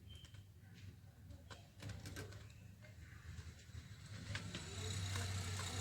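Budgerigars making small chirps and scattered clicks over a steady low hum, with a hissing noise growing louder near the end.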